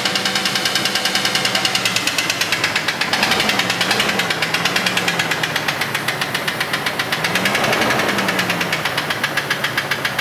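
Jeep Cherokee XJ's 4.0 L inline-six running with a heavy, rapid, even knock: a worn connecting-rod bearing (rod knock). The engine is blipped up and back down twice, about three seconds in and again near eight seconds, and the knock carries on throughout.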